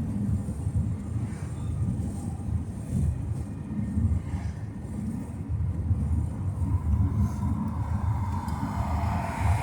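A car driving at road speed, heard from inside: a low, fluctuating rumble of road and wind noise with wind buffeting the microphone. A higher hum builds up over the last few seconds.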